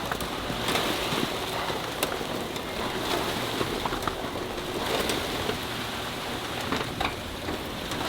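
Work noise in a precast concrete plant: a steady hiss with frequent scattered clicks and knocks.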